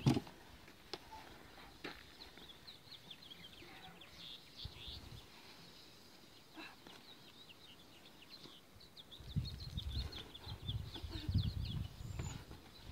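Small birds chirping in quick, repeated short notes in the background. From about nine seconds in, low rumbling noise comes in gusts.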